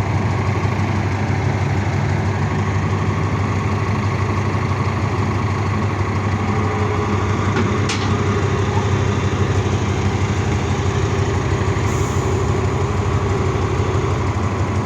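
Heavy machine's engine running steadily at idle, with a single sharp click about eight seconds in.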